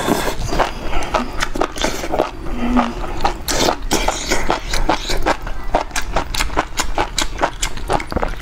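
Close-miked eating of enoki mushrooms in broth: a rapid, irregular run of wet mouth clicks, smacks and slurps as the mushrooms are chewed.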